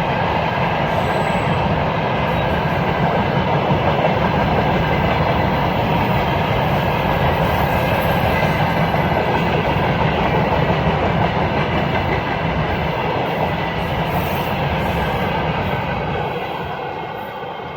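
Freight train wagons rolling past on the track, a loud steady rumble of wheels on rails that starts to fade near the end.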